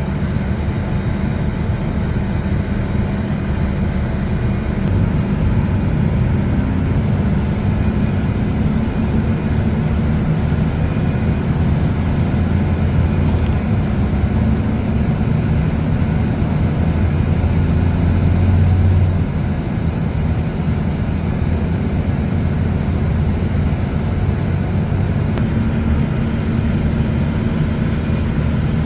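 Train running: a steady low rumble with an engine-like hum that swells a little about two-thirds of the way through, then eases back.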